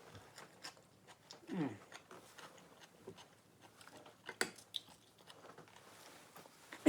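Faint crunching and chewing of spicy dill pickle chips, scattered small crunches with one sharper crunch past the middle, sped up in playback.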